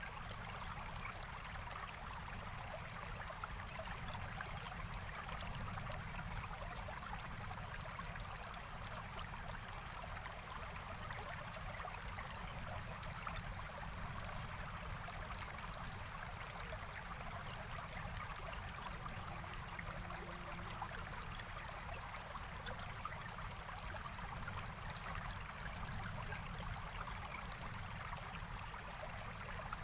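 Forest stream flowing steadily: a continuous, even rush of running water.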